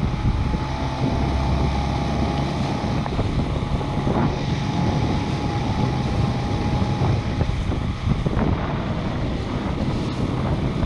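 Outboard motor running steadily as the inflatable dinghy trolls, with wind buffeting the microphone.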